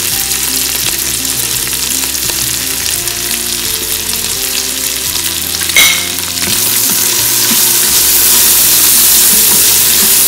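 Boiled chickpeas frying in oil in the stainless steel inner pot of an Instant Pot on sauté, a steady sizzle. A single sharp knock comes about six seconds in, after which the sizzle grows louder, and a silicone spatula stirs near the end.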